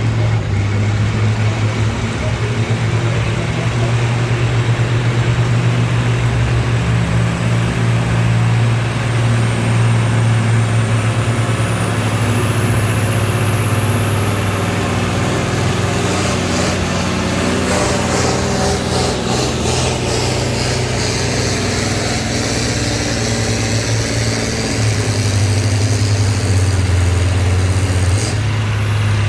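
Antique tractor engine running steadily and loud at a tractor pull. A thin high whine rises over several seconds, holds, and falls away near the end.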